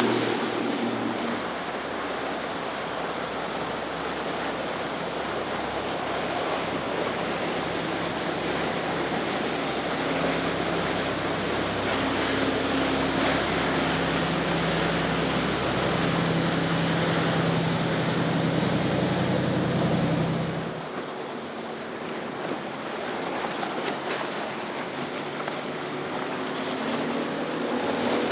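Engines of an Ocean Yachts Super Sport sportfishing boat running past with a steady hum, over rushing wake water and wind. About twenty seconds in, the engine sound cuts off, leaving surf and wind. Another boat's engine comes in faintly near the end.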